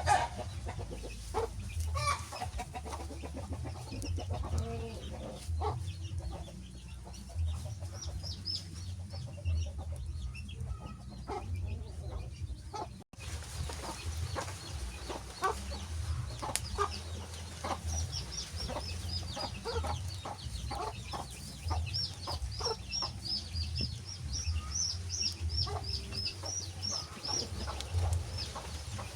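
Wood fire crackling over a low rumble, with a run of quick, high bird chirps through the second half. The sound cuts out for an instant about halfway through.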